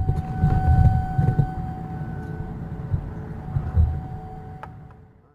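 Irregular low rumbling of wind and handling noise on a head-mounted action camera's microphone, with a faint steady tone, fading out to silence near the end.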